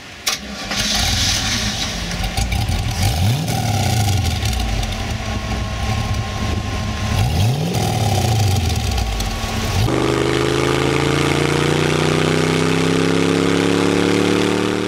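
The Dettling's 350 small-block Chevy V8 starts just after the beginning and idles through its exhausts, blipped twice with rising and falling revs. After about ten seconds it runs under load while driving, its pitch slowly climbing.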